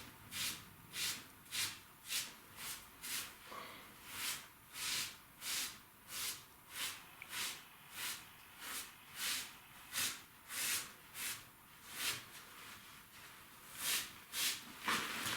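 Rhythmic rubbing or scrubbing strokes on brickwork by hand, about one and a half strokes a second, with a brief pause a little after twelve seconds in.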